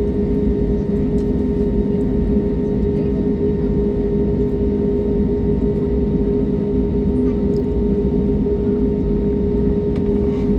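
Airliner cabin noise from the jet engines and airflow: a loud, steady drone with a constant low hum.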